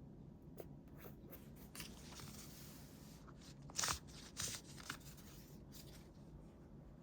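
Paper handling during scrapbooking: small scattered taps and light rustles, with two louder paper rustles about four seconds in.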